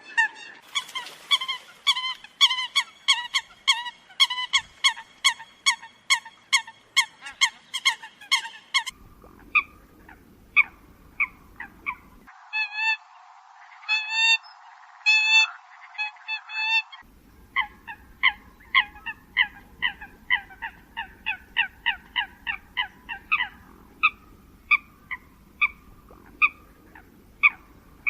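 Eurasian coot calls: short, pitched calls repeated rapidly, about three a second. The recording is spliced, so the background changes abruptly a few times and the calls thin out and then pick up again.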